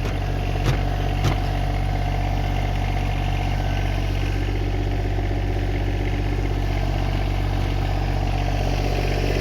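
Tractor engine idling steadily, with two sharp knocks in the first second and a half.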